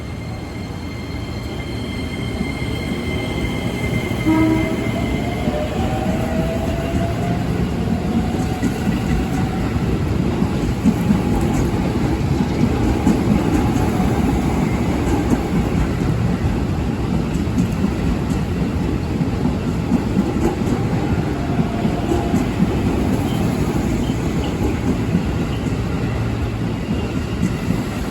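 JR 205 series electric commuter train running into the station: a rumble of wheels on rail with clickety-clack builds over the first ten seconds, and a whine falls in pitch about five seconds in as the train slows, all over heavy rain.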